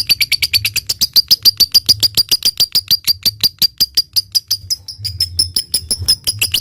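Lovebird's long, rapid chattering trill (the 'ngekek' call): an unbroken run of sharp, high notes at about eight a second, quickening just before the end.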